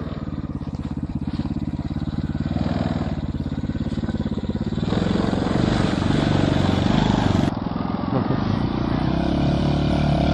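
Small engine of a home-built mini car running with a rapid, even firing beat, growing louder and fuller about halfway through as it is given more throttle.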